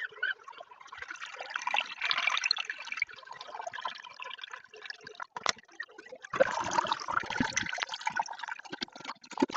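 Water running and splashing into a toilet cistern as it fills, with louder spells about two seconds in and again near the seven-second mark.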